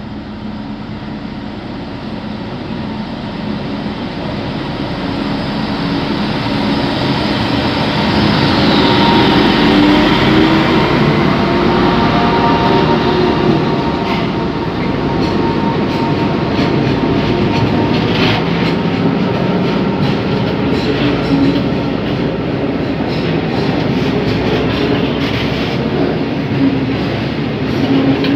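Freight train hauled by a CSR Ziyang diesel-electric locomotive drawing near and passing, growing louder over the first ten seconds. A long string of bulk cement tank wagons then rolls by, their wheels clicking repeatedly over the rail joints.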